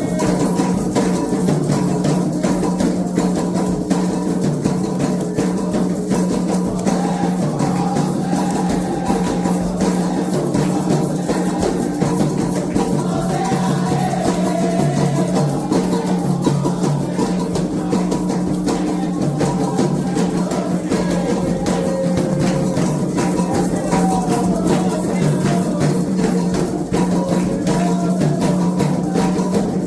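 Candomblé ritual music: hand drums played in a dense, steady rhythm with a shaken rattle, under a sung chant.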